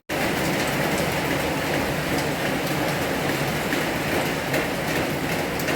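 Heavy rain falling in a steady downpour, with scattered drop ticks over a dense, even hiss.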